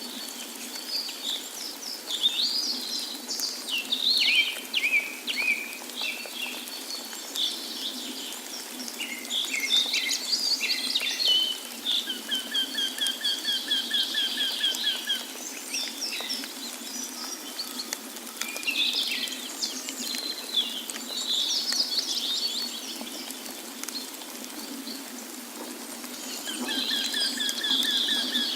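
Several songbirds chirping and singing, with a fast trill of evenly repeated notes about halfway through and again near the end, over a steady rush of falling water.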